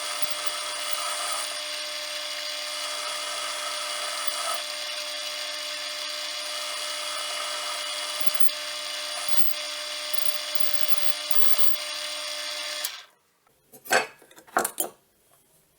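Lathe running with a steady multi-tone motor whine and swells of cutting noise, which stops suddenly near the end; a few sharp knocks follow.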